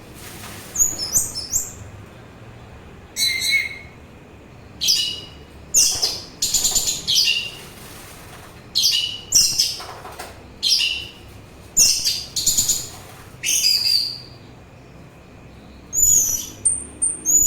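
Orange-headed thrush singing: a string of short, high-pitched phrases of whistled notes with quick up-and-down slurs, broken by brief pauses.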